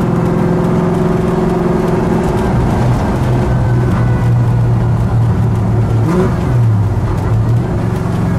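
Supercharged Ford Coyote V8 in a 1948 Ford Woody wagon restomod, heard from inside the cabin while cruising at low speed. Its note drops to a lower steady pitch about three seconds in.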